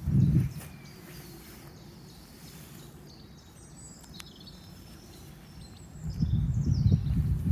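Outdoor ambience with faint, short bird chirps. A low, uneven rumble comes briefly at the start and again, louder, from about six seconds in.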